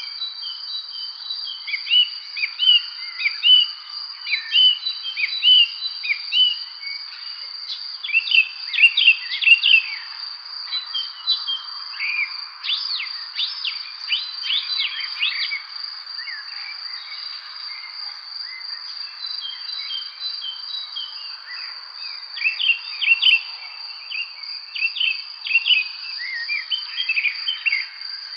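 Several songbirds chirping and singing in quick short phrases over a steady, high insect trill, the chirping busiest in bursts a third, half and four-fifths of the way through.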